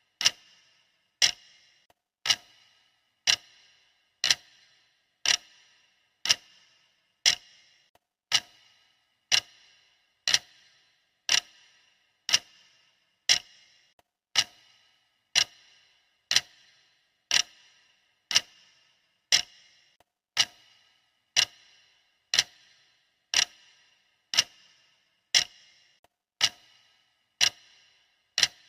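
Clock ticking steadily, one sharp tick every second, as a countdown timer's tick track.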